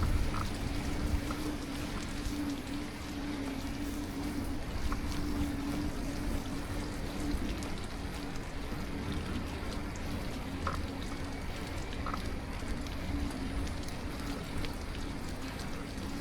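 Steady rushing noise of a bicycle riding on a wet road in light rain, with wind, tyre noise and a steady low hum, and a few faint ticks.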